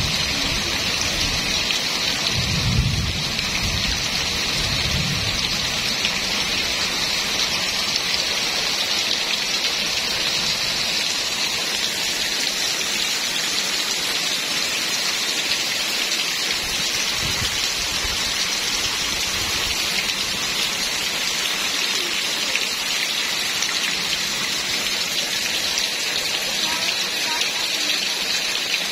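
Steady heavy rain falling, with low rumbles during the first few seconds.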